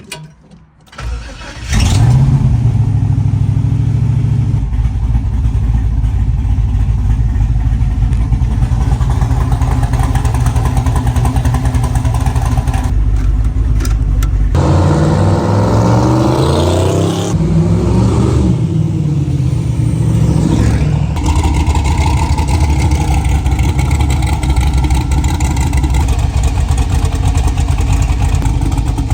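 The 1969 Chevelle SS's twin-turbo LS V8 fires up about two seconds in and runs steadily. Around the middle its pitch rises and falls several times as it is revved and pulled away, then it settles back to a steady run.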